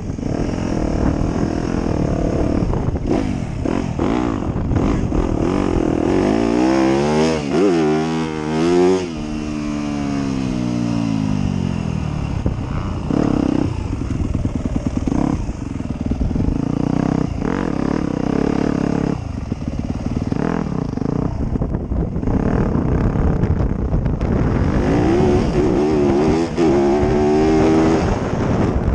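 Motocross dirt bike engines running, the revs rising and falling as the bikes are ridden through the track. There is one clear run up and back down in pitch several seconds in, and another near the end.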